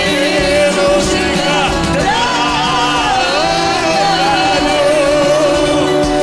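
Roma singers singing a song with musical accompaniment, the voice holding long notes with vibrato.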